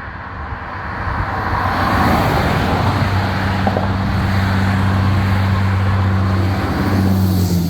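A road vehicle approaching and passing close by: road noise builds, then a steady low engine drone holds for several seconds and drops slightly in pitch near the end as it goes past.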